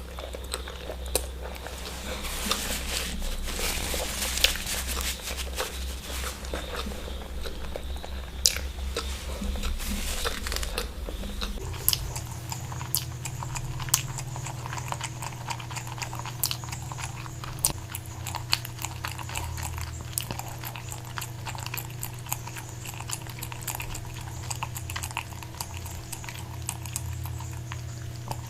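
Close-up chewing and biting of eggs, with many sharp wet clicks and smacks of the mouth. A steady low hum runs underneath and changes in pitch about twelve seconds in.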